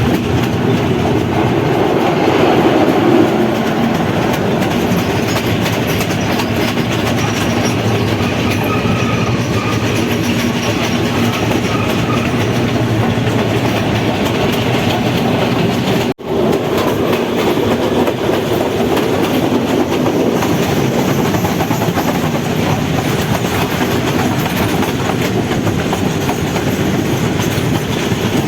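Passenger train running along the track, a steady rumble of the train in motion, with a very short break in the sound about sixteen seconds in.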